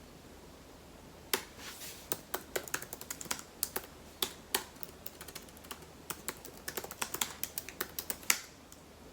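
A quick, irregular run of sharp clicks and taps, several a second, starting about a second and a half in and stopping near the end.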